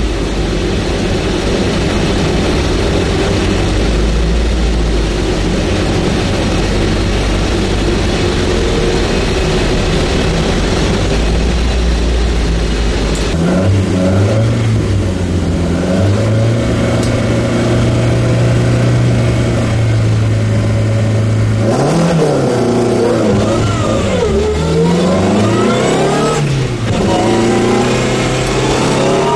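Opel competition car's engine heard from inside the cabin: a low, steady rumble at first, then held at a steady higher note about halfway through. Near the end it launches and accelerates hard, revving up in several rising sweeps with gear changes between them.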